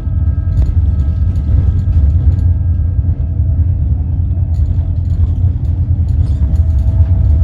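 Narrow-gauge electric train running: a loud, steady low rumble with a faint steady whine above it and scattered light clicks.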